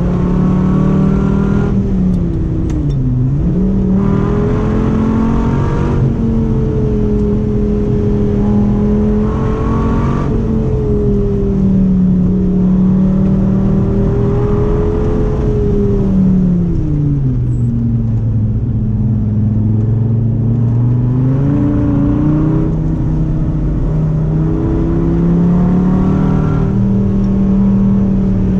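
Dodge Viper V10 engine running hard on track. Its pitch holds steady, dips sharply and recovers about three seconds in, then falls to a low note for several seconds past the middle before rising again, as the car brakes and accelerates between corners.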